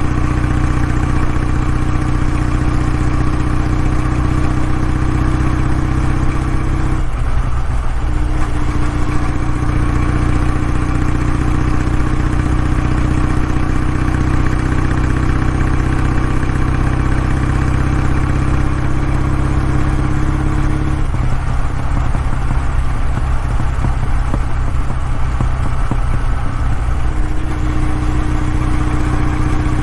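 Kawasaki W650's air-cooled parallel-twin engine running steadily through its exhaust. Its even note breaks up briefly about a quarter of the way in, and again for several seconds in the last third.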